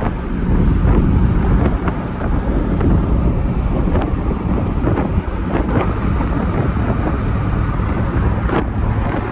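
Steady low rumble of a moving vehicle with wind buffeting the microphone, and a few faint clicks scattered through it.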